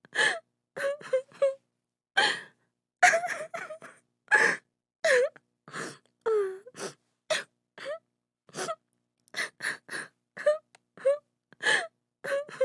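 A woman sobbing: a rapid run of short, catching gasps and sobs, with a few longer wavering wails near the middle.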